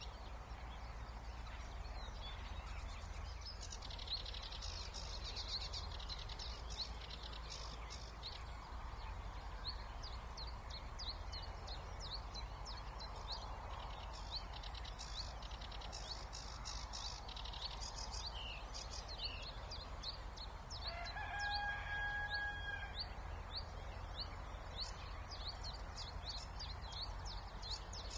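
Spring songbird chorus of many quick high chirps and trills over a steady low rumble. About 21 s in, a single drawn-out call lasting about two seconds, rising slightly and then held on one pitch, stands out above the chorus.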